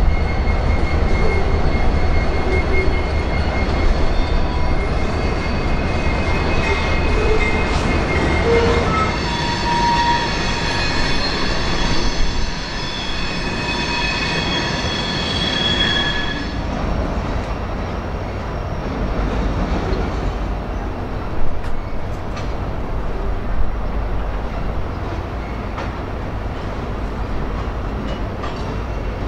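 Freight train of covered hopper cars rolling across a steel railroad bridge: a steady low rumble of wheels on rail, with high-pitched steel wheel squeal in several tones at once that comes and goes and cuts off about halfway through. A few sharp knocks near the end.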